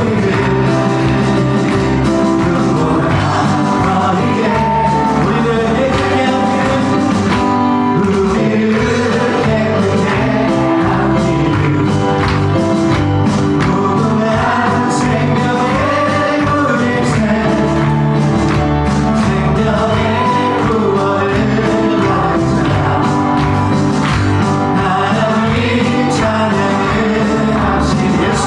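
Contemporary Christian worship music: a band with singers performing a praise song, playing steadily throughout.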